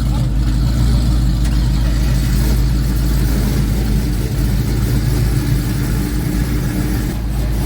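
A car engine idling steadily, a constant low rumble with a steady hum.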